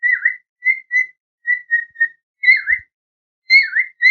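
Cockatiel giving a run of short whistled chirps, several dipping down and back up in pitch, with a brief pause about three seconds in.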